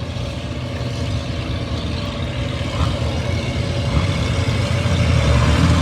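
Antique farm tractor engine running at a steady drone, growing louder toward the end.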